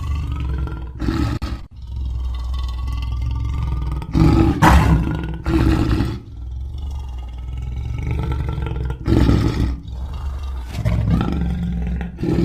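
A lion roaring and growling: a continuous deep growl with louder roars about a second in, again from about four to six seconds, and near nine and eleven seconds.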